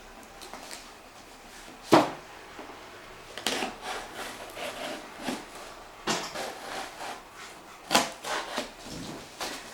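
A cardboard box and its packaging being handled and opened: rubbing and scraping with scattered knocks, the sharpest about two seconds in and again about eight seconds in.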